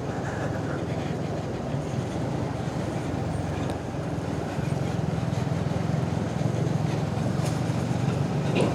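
Suzuki Gixxer 250 single-cylinder motorcycle engine running steadily while riding, with wind and road noise. The engine note grows a little stronger about halfway through.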